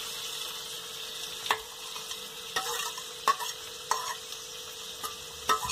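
Boiled potato pieces sizzling as they drop into hot ghee in a steel kadhai, with a steady hiss. A steel spoon scrapes the last pieces off a steel plate, knocking against the plate and pan in a handful of sharp clicks.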